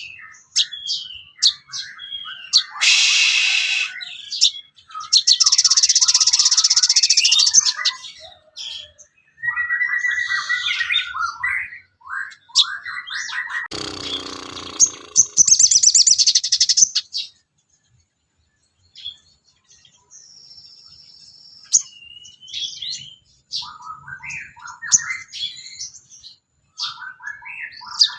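A songbird singing a long, varied song of quick chirps and whistled phrases, broken by several raspy, buzzing stretches, with a short pause about two-thirds of the way through.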